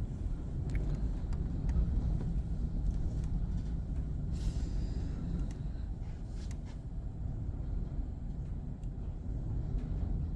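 Strong gusting wind buffeting the microphone: an uneven, low rumbling rush, with a few faint scattered ticks and a brief higher hiss about four and a half seconds in.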